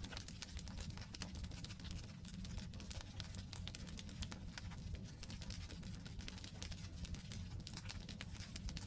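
Wood campfire burning: logs crackling with dense, irregular small pops over a steady low rumble.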